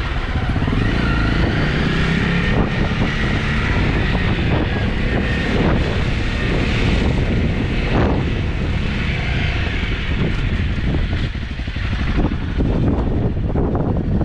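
Honda CRF250's single-cylinder four-stroke engine running steadily while the motorcycle is ridden, heard from on the bike.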